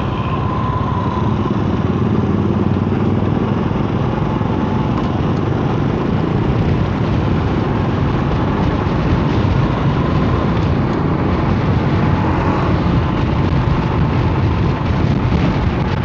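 Strong storm wind buffeting the microphone of a moving vehicle: a loud, steady rushing noise.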